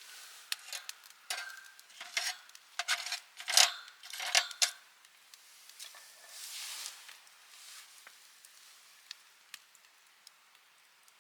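Clattering and rustling of small objects being handled for about five seconds, with a short hiss a little later, then a few faint sharp ticks.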